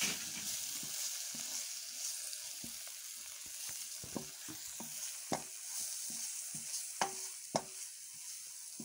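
Chopped tomato, onion and ground spices sizzling in hot oil in a non-stick kadai while a wooden spatula stirs and scrapes them, with a steady hiss and repeated knocks of the spatula against the pan, the sharpest about five and seven seconds in.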